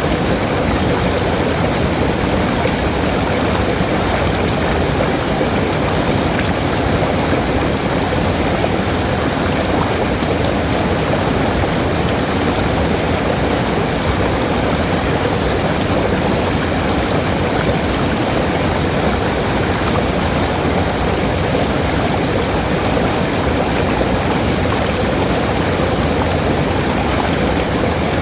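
Waterfall: water falling and rushing, a steady, even roar of noise that does not change.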